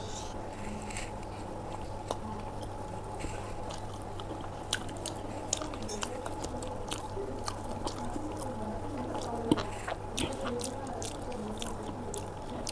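Close-up chewing and biting of aloo paratha with curd: irregular wet mouth clicks and smacks, a few sharper ones about five and nine and a half seconds in, over a steady low electrical hum.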